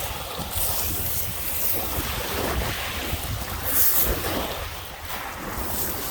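Lake Michigan waves breaking and washing up the beach in surges, the loudest about four seconds in, with wind rumbling on the microphone.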